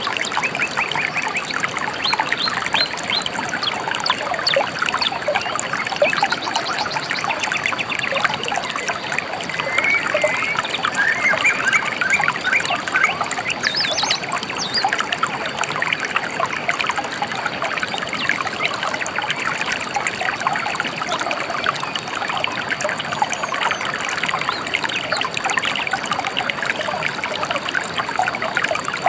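A shallow river babbling and trickling steadily over stones. A few brief bird chirps come through, around a third of the way in and near the middle.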